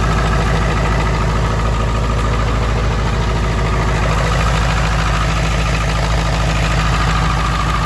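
A 2001 Ford F-250 Super Duty's 7.3-litre Power Stroke V8 turbodiesel idling steadily with its diesel clatter.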